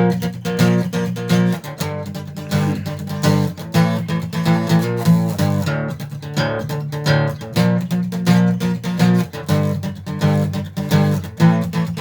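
Acoustic guitar strumming chords in a steady rhythm: an instrumental passage of a song with no singing.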